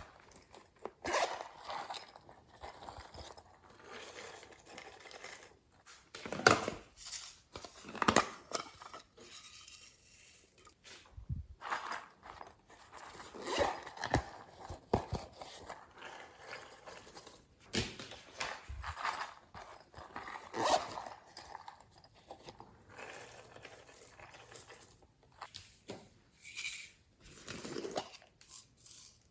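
Slime being mixed and squished: irregular sticky crackles and squelches, with a few sharper pops.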